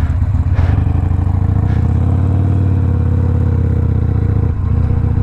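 Harley-Davidson Sportster Iron 1200 V-twin engine running under way through a Two Brothers 2-into-1 exhaust. It is steady, with a brief dip about four and a half seconds in.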